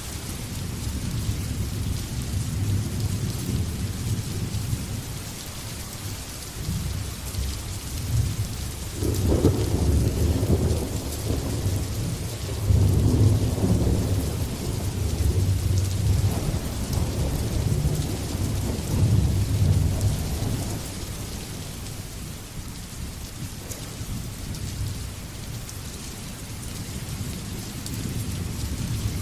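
Steady rain with rolling thunder: a long, low rumble builds about a third of the way in, swells twice and slowly dies away, while the rain hiss goes on underneath.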